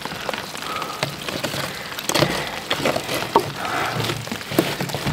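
Steady rain, with scattered knocks, clicks and scrapes of plastic drain pipe and fittings being handled and pushed together. The handling gets busier from about two seconds in.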